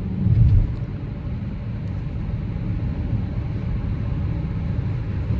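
Steady low rumble of a 2025 BMW X6M on the move, its 4.4-litre twin-turbo V8 running under road noise, with a brief louder swell about half a second in.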